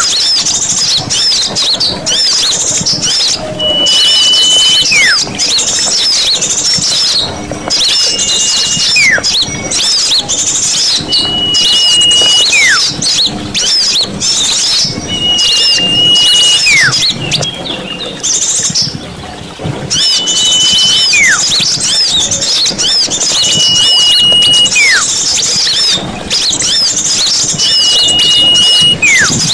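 Bird-lure recording of a dense chorus of small songbirds, chattering and chirping continuously. Over it, a whistled note is held for about a second and then drops sharply in pitch, about every four seconds.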